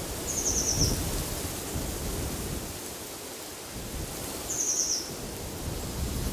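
Wind gusting with a low rumble. A small bird gives a short, high, rapid trill twice, about four seconds apart.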